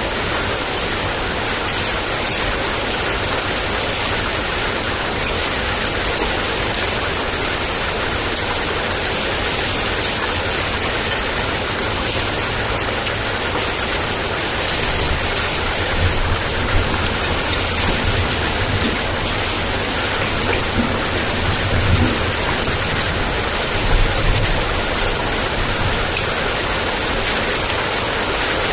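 Heavy rain in a steady, dense hiss. A low rumble swells underneath in the second half, with small peaks about 22 and 24 seconds in: the thunder rumbling of a downpour.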